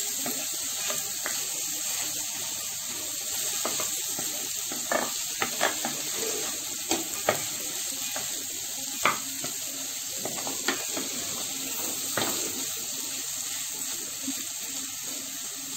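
Potato, pea and paneer filling frying with a steady sizzle in a kadai over a full flame, while a spatula scrapes and taps against the pan now and then as the mixture is stirred.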